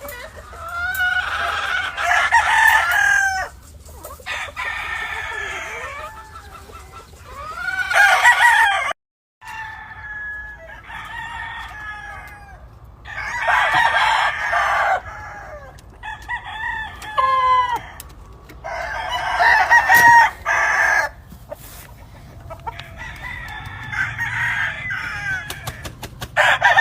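Gamefowl roosters crowing over and over, one call after another and sometimes overlapping, with hens clucking between the crows. The sound drops out briefly about nine seconds in.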